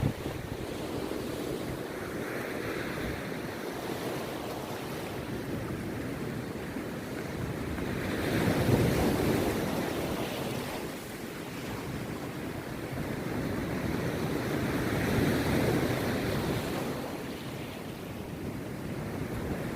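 Rough sea surf breaking on a beach: a steady wash of waves that swells loudest twice, about a third of the way in and again past the middle, then falls back.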